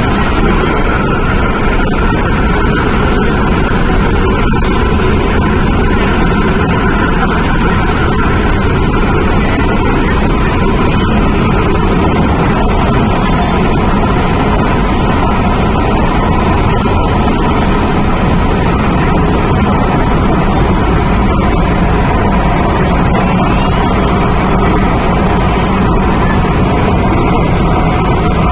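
Running noise of an MTR Tung Chung Line CAF electric train heard from inside the car: a loud, steady rumble with an even hum from the drive, as the train runs at a constant speed.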